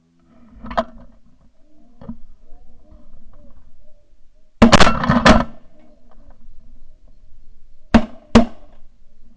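Shotgun blasts at incoming snow geese: a lighter shot about a second in, a volley of several overlapping shots about halfway through, and two sharp shots near the end. Faint goose calling between the shots.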